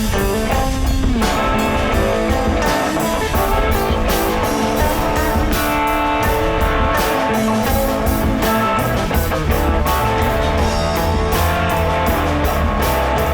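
Live band playing an instrumental passage of a rock song: guitar leading over a steady drum kit beat, without vocals.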